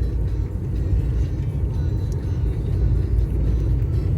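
Steady low rumble of a truck's engine and tyres heard from inside the cab, driving slowly over a rough, potholed road.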